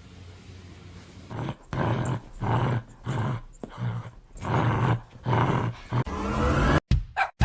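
A dog calling out about eight times in a row, each call loud and about half a second long, starting just over a second in. Near the end a rising sweep begins.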